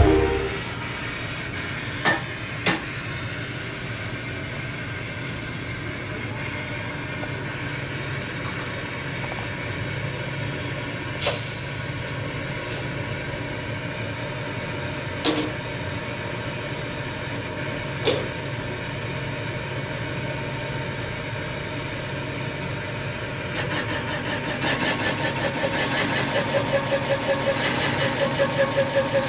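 Machine-shop machinery: a steady hum with a few sharp metallic clicks and knocks, then a machine starts running with a fast rhythmic pulsing, about five beats a second, near the end.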